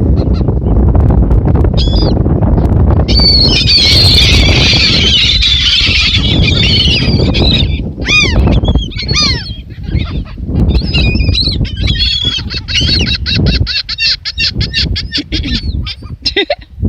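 A flock of birds calling loudly over one another, with a fast run of repeated notes near the end. Under the calls is a steady low rumble like wind or surf.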